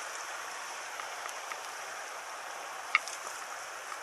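Small stony stream running, a steady rushing of water, with one sharp click about three seconds in.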